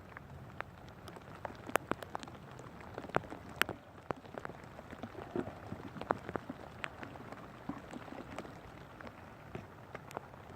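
Steady rain falling, with many irregular sharp taps of drops landing close by.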